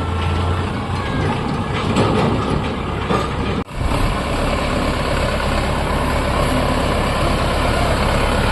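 Sonalika tractor's diesel engine and the machinery it drives, running steadily with a loud, dense din. The sound drops out for an instant about three and a half seconds in, then carries on.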